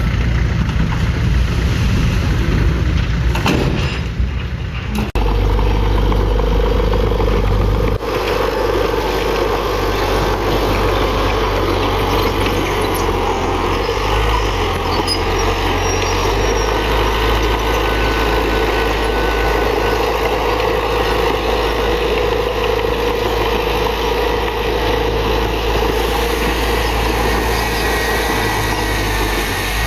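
Heavy diesel earthmoving machinery running steadily under load, with a brief drop about four to five seconds in and a change in the engine's low note about eight seconds in.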